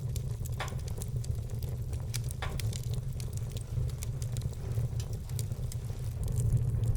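Wood fire burning in a fireplace, with a steady run of small crackles and two louder pops, about half a second in and about two and a half seconds in, over a steady low rumble.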